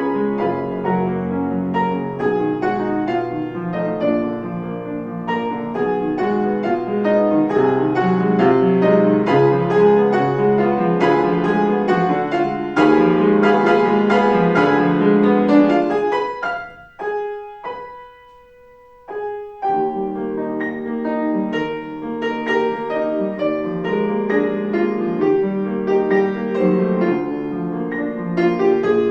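Piano playing a classical piece. About two-thirds of the way through the playing nearly stops, leaving one held note sounding quietly for a couple of seconds, and then resumes.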